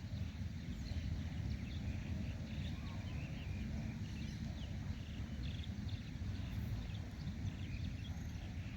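Wind rumbling on the microphone, with many short bird chirps and calls over it.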